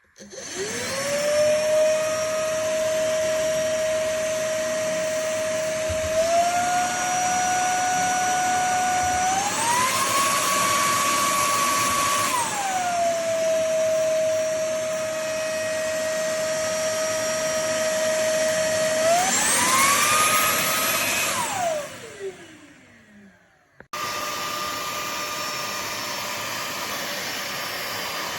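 Ultenic U20 cordless stick vacuum's motor starting with a rising whine. It steps up through its power levels to a higher-pitched whine, drops back to the lower setting, and rises again. It is then switched off and spins down with a falling whine; after a short gap a steady running sound comes back.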